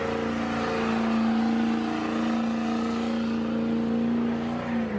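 Pickup truck engine and loud exhaust held at a steady high rev, the pitch staying almost level throughout.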